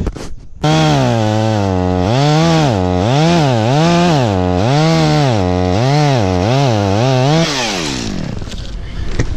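Chainsaw engine revved up and down over and over, its pitch swinging about once every 0.7 seconds. About seven and a half seconds in, the throttle is released and the pitch slides down and fades.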